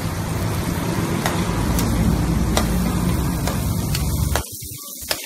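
Vegetables frying in hot oil in a pan: a steady sizzle with a few sharp pops, falling much quieter about four seconds in.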